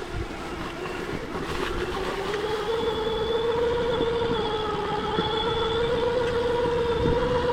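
Stark Varg EX electric dirt bike's motor whining, a single steady high tone over a rough low rumble. It grows louder over the first few seconds as the bike gets going and rises slightly in pitch near the end.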